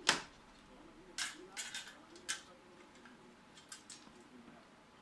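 A handful of sharp clicks and light taps of small hard parts being handled: the loudest just after the start, a quick cluster between about one and two and a half seconds in, and a couple more near four seconds.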